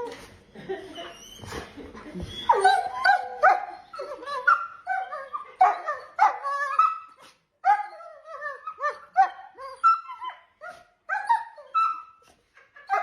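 A dog barking and whining in a long run of short, pitch-bending calls, several a second, starting a couple of seconds in.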